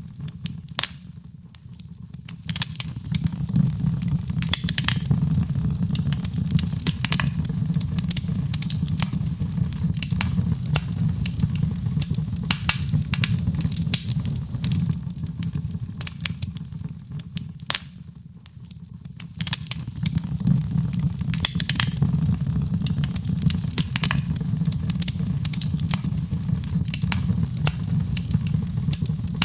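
Wood fire in a fireplace crackling with frequent sharp pops over a steady low rumble of flames. The crackling thins and the sound drops for a couple of seconds near the start and again a little past the middle.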